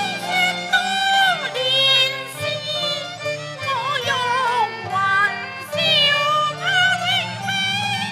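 Cantonese opera accompaniment ensemble playing an instrumental passage between sung lines: a bowed string melody with sliding, wavering notes over steady low sustained accompaniment.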